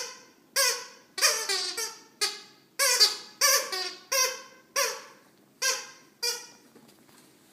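A pet animal squeaking in a series of about a dozen short, high calls, several of them falling in pitch.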